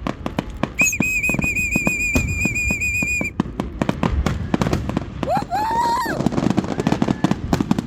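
Fireworks crackling and popping in rapid, dense strings. A high warbling whistle from a whistling firework starts about a second in and cuts off after about two and a half seconds. A shorter, lower rising tone follows about five seconds in.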